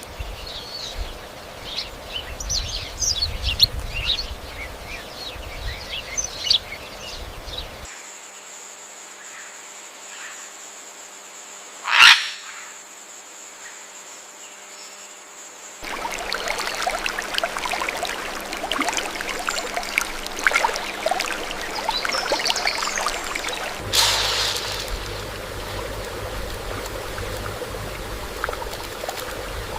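Many short high bird chirps over outdoor background noise, breaking off at several abrupt cuts. In a quieter stretch in the middle, with a steady high tone, there is one short loud sound about twelve seconds in.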